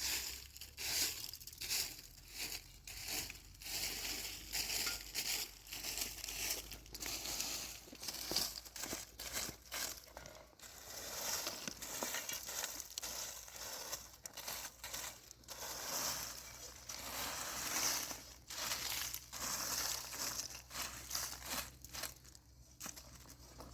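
Irregular rustling and crunching, a string of short noisy bursts coming every second or so.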